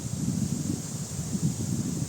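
Wind buffeting the microphone in uneven gusts, a low rumble over a steady high hiss.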